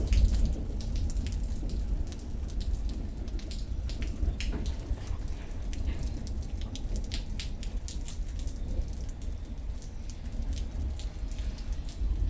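Rain falling during a thunderstorm, with many separate heavy drops ticking on a hard surface close by over a steady hiss and a constant low rumble underneath.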